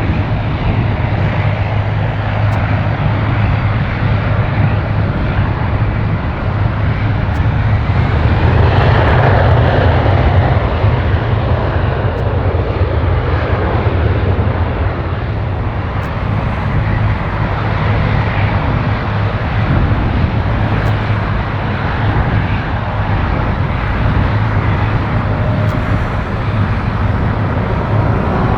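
Jet engine noise from a Boeing 777-300ER's GE90 turbofans, a steady rumble that swells about nine seconds in.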